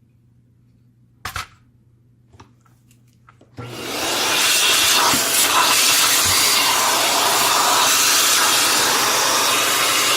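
A few light knocks and clicks of parts being handled, then a powered air tool switches on about three and a half seconds in and runs with a loud, steady rush of air.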